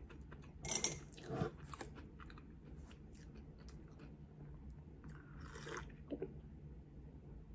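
Close-miked mouth sounds of a person chewing and swallowing a mouthful of Korean corn dog, with a louder gulp about a second in. About five seconds in comes a sip from a mug.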